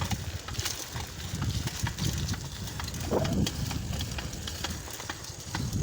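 Bicycle being ridden: a steady low rumble of wind and tyres on the microphone, with frequent irregular clicks and rattles.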